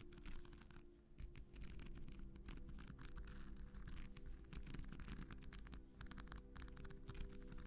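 A sequin sheet being scratched: fast, dense scratchy strokes with clicking over the sequins, over soft sustained background music.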